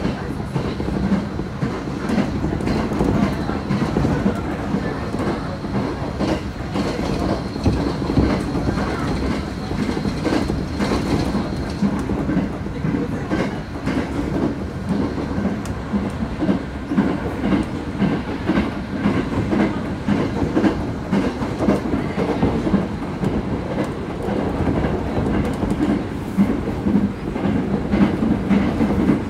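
Passenger train running, heard from inside the car: a steady low rumble with the wheels clicking over rail joints. A faint high whine comes in for a few seconds about a quarter of the way through.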